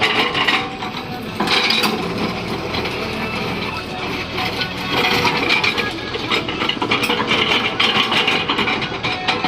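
Excavator's diesel engine running steadily, with repeated metallic clanking and scraping.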